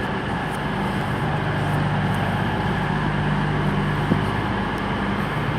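Diesel passenger train standing in the platform with its engine idling: a steady low hum, with one short click about four seconds in.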